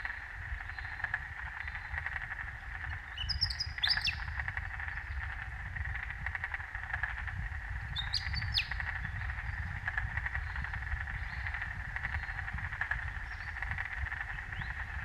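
A steady chorus of frogs calling, a dense pulsing trill. Short bursts of bird calls cut in over it twice, about three to four seconds in and again about eight seconds in.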